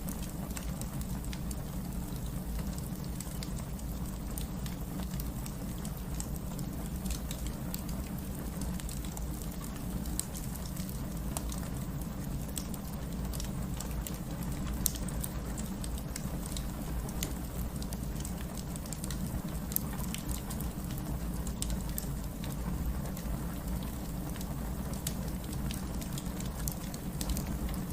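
Steady rain mixed with a crackling wood fire. Scattered sharp crackles and pops sit over an even rain hiss, with two louder pops about 15 and 20 seconds in.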